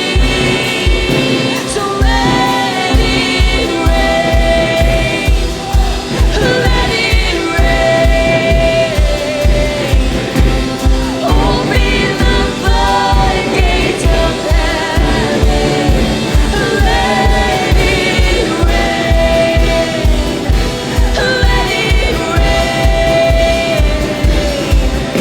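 Live worship music: singers holding long, bending sung lines over a band with a steady kick-drum beat of about two beats a second.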